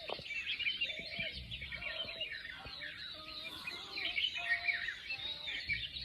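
Dawn chorus of many wild birds: a dense mix of overlapping high chirps and trills, with a lower short call repeated about once a second.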